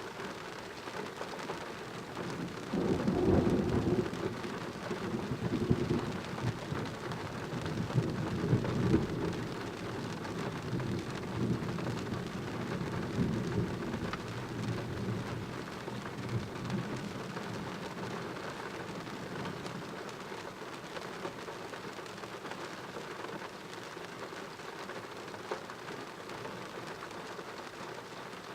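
Steady rain falling, with a long roll of thunder that breaks about three seconds in, rumbles in several waves and slowly fades away over the next fifteen seconds or so.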